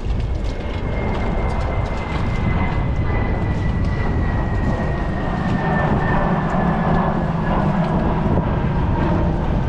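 Wind buffeting the microphone with water noise, a dense low rumble. A faint, thin, high whine slowly falls in pitch over several seconds.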